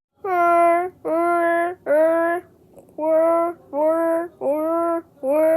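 A child singing seven short held notes at nearly the same pitch, three, then a brief pause, then four more.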